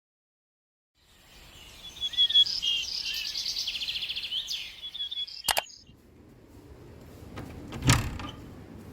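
Small birds chirping and trilling rapidly for about four seconds, cut off by a sharp click; then a low, even hush with a single knock near the end.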